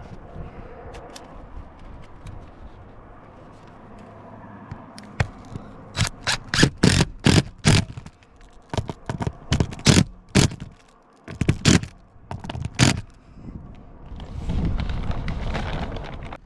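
Work on a metal roof while fastening a vent-pipe flashing boot with short screws. Low scraping and handling noise comes first, then a quick, irregular run of sharp clicks and knocks from about six to thirteen seconds in.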